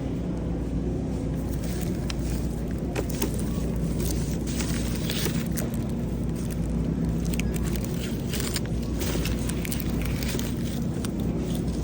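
Grocery store background: a steady low hum with scattered rustling and clicking as produce and bags are handled.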